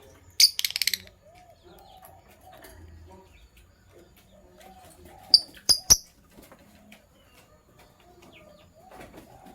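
Lovebirds chirping: a loud burst of shrill chirps about half a second in and three sharp chirps a little before the six-second mark. Soft, low pigeon cooing runs underneath.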